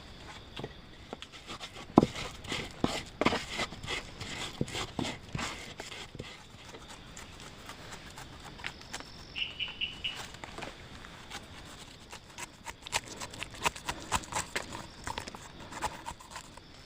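Irregular knocks and clicks in two spells from hand food preparation for pineapple rujak, the loudest knock about two seconds in, with a brief high chirp in the quiet stretch between.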